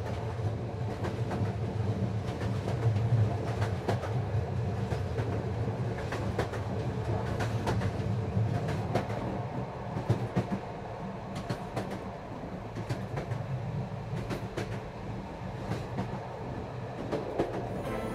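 Railway train running: a steady low rumble with irregular clicks and knocks from the wheels on the track.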